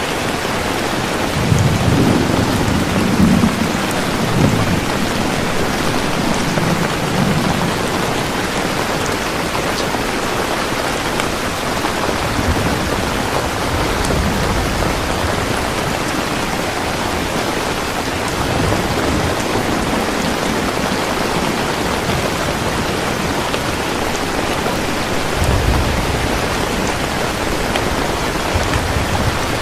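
Steady rain pouring, with low rumbles of thunder about two seconds in and again near the end.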